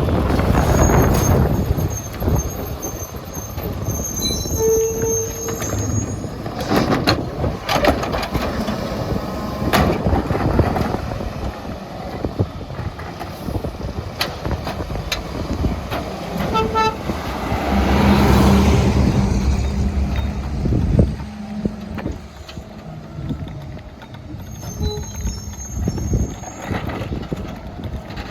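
Mack MR rear-loader garbage truck at work: the engine running, with metal clanks and knocks from the McNeilus rear-loader body as cans are dumped and the load is packed. About two-thirds of the way through the engine runs up louder for several seconds as the packer cycles. There are a couple of short beeps and faint high air-brake squeals.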